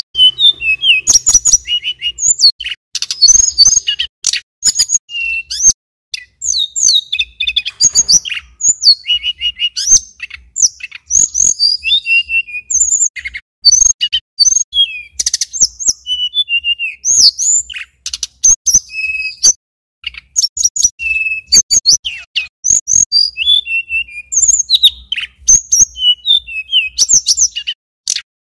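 Male tledekan gunung (sulingan gunung) singing a long, rapid run of high chirps and whistled notes, broken by a few brief pauses.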